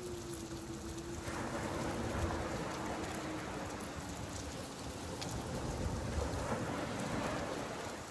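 Steady rain falling at a beach, with the wash of surf swelling up about a second in. A low hum runs underneath, slowly dropping in pitch.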